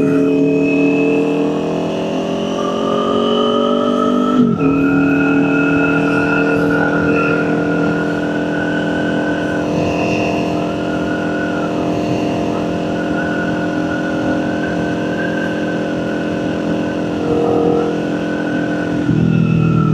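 Kawasaki Ninja 400's parallel-twin engine running steadily under way. There is a brief break in the engine note about four seconds in, and the low engine note grows louder near the end.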